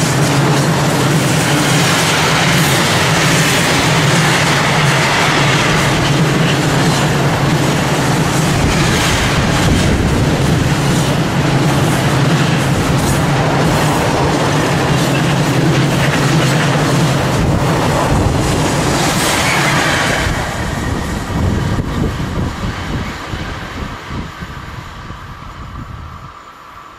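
Long freight train of container wagons, hauled by a Class 185 electric locomotive, passing close by at speed, its wheels loud on the track. The noise fades from about 20 seconds in as the end of the train goes by.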